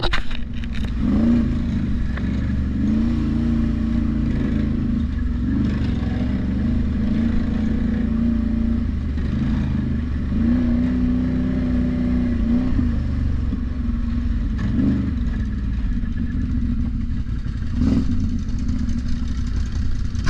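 ATV engine running steadily under way, with a low rumble and brief rises in pitch from throttle changes every few seconds.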